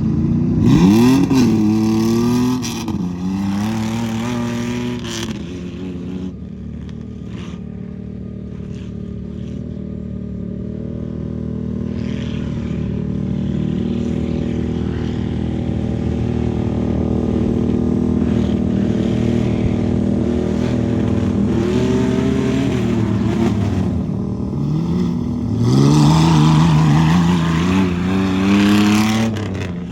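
Modified truck engine revving hard, its pitch surging up and down, with loud bursts about a second in and again near the end and a steadier, quieter run in between.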